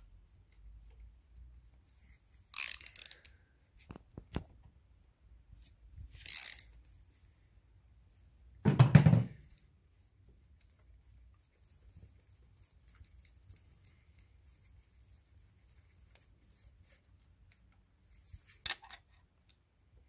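A few separate metallic clicks and scrapes from a hand wrench with a T45 Torx bit working the injector clamp screws loose on a diesel cylinder head, with a heavier knock about nine seconds in.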